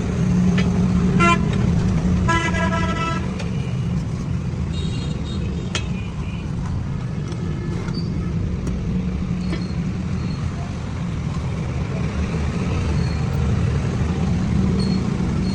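Steady road-traffic rumble with a vehicle horn tooting briefly twice in the first few seconds, and a few sharp clicks.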